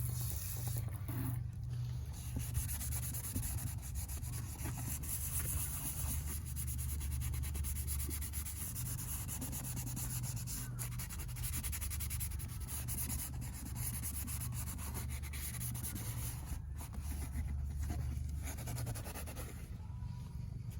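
A blue Scotch-Brite scouring pad scrubbing the scuffed plastic bodywork of a motocross bike, wet with household cleaner. The rubbing and scratching goes on continuously, in quick back-and-forth strokes.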